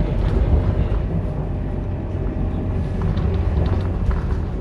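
Scania K230UB city bus running, a steady low diesel rumble from its nine-litre five-cylinder engine, with a few faint clicks and rattles over it.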